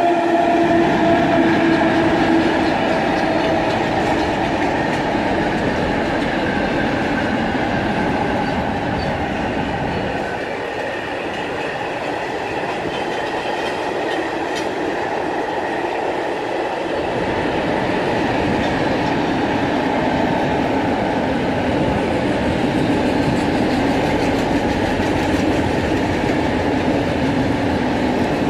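Freight train wagons rolling past: a steady, loud rumble and rattle of wheels on rail. A humming tone fades out within the first few seconds, and the sound eases slightly for a few seconds around the middle.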